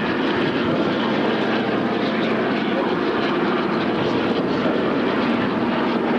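Steady engine noise of a fixed-wing aircraft, with no sudden changes.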